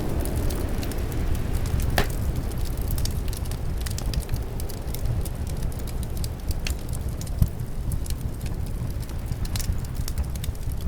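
Wood fire crackling with scattered small pops and a sharper pop about two seconds in, over a steady low rumble of wind.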